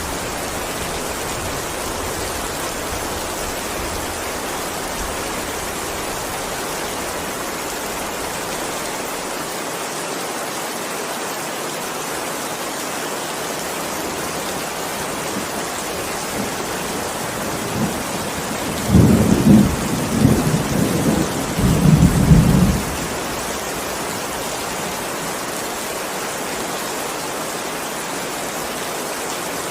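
Steady heavy rain falling, with a rumble of thunder about two-thirds of the way through that rolls on for several seconds.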